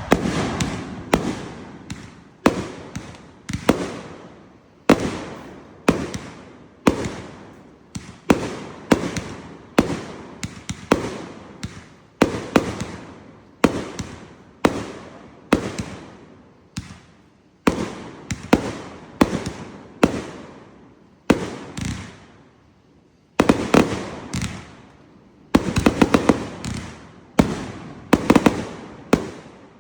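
Fireworks going off in a long run of sharp bangs, about one a second or faster, each echoing away. There is a brief lull about two-thirds of the way through, then a quick cluster of bangs before the run stops near the end.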